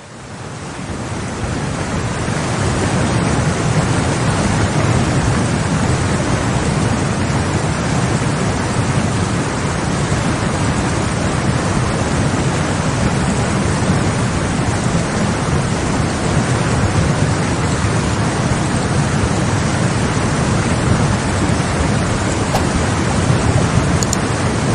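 Floodwater rushing by, a steady, loud rush of water noise that builds up over the first couple of seconds and then holds.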